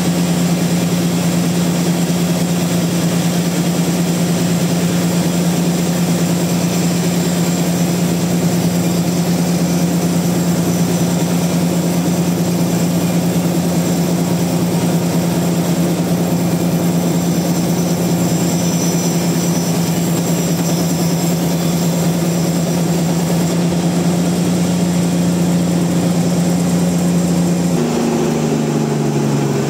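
Sawmill machinery engine running at a steady speed with a strong, even hum; about two seconds before the end its pitch shifts, one tone rising as the speed changes.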